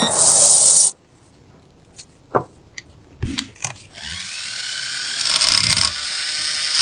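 A loud burst of noise cuts off suddenly about a second in, followed by a few light knocks and clicks. From about four seconds a handheld power tool starts up with a rising whine and runs on, growing louder.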